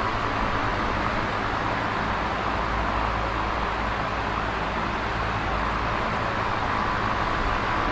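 Electric fan running steadily: an even whooshing of moving air with a low motor hum beneath.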